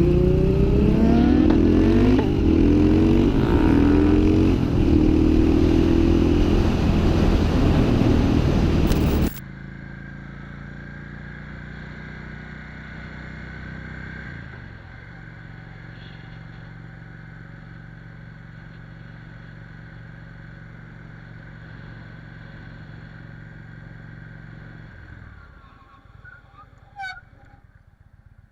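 Motorcycle engines revving loudly for about nine seconds, then a sudden cut to a much quieter, steady engine hum that fades out near the end, where a brief voice is heard.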